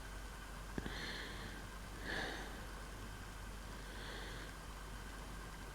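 Faint room tone with three soft breaths, about a second in, just after two seconds and about four seconds in, as a speaker pauses between sentences.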